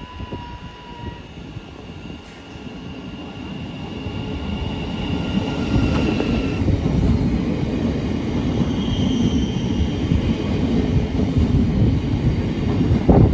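A train running along the track through the station, its rumble building over the first few seconds and then holding steady. A thin high wheel squeal sounds over it and stops about seven seconds in.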